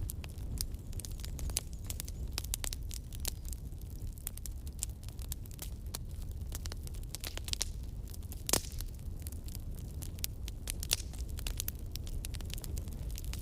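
Wood campfire crackling: irregular sharp pops and snaps, one louder pop about two-thirds of the way through, over a steady low rumble of the burning fire.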